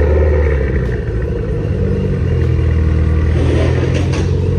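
Mitsubishi Lancer Evolution X's turbocharged four-cylinder pulling away at low revs, a steady low exhaust drone whose pitch shifts slightly about two seconds in.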